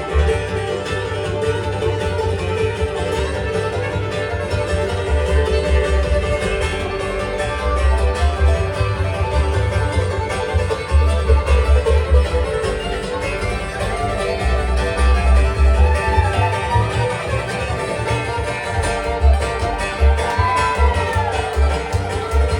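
Live bluegrass band playing: banjo, fiddle, mandolin, guitar and bass together, with the bass keeping a steady pulse under the picked strings.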